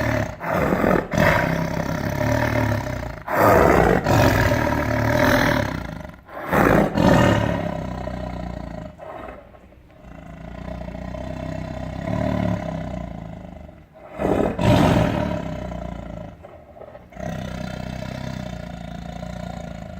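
Tiger roaring and growling in a series of loud bouts, each a second or a few seconds long, with short breaks between them.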